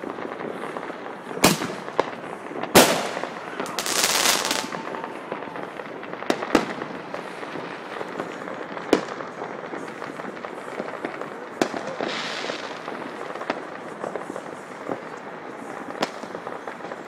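Fireworks and firecrackers going off around the neighbourhood: scattered sharp bangs over a steady background crackle of distant popping. The loudest bang comes about three seconds in, followed a second later by a quick string of cracks.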